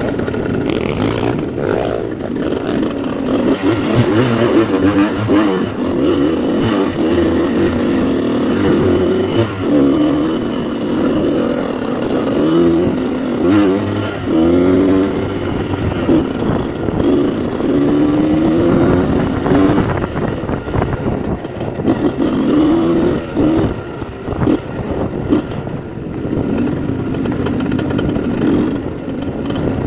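Dirt bike engine revving up and down over and over, its pitch rising and falling, as the bike is ridden.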